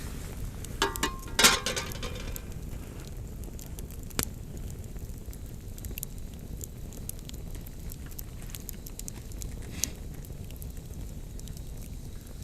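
Campfire burning: wood crackling with scattered sharp pops over a steady low rumble, and a louder cluster of knocks about a second and a half in.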